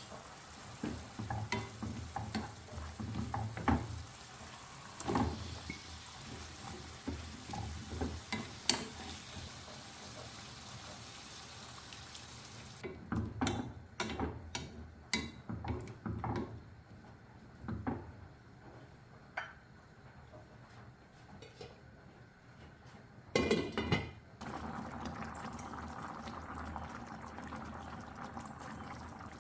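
Food sizzling in a pan while a utensil stirs and knocks against it. About halfway the sizzle cuts off and only scattered knocks of kitchenware remain, then near the end a steady hiss begins.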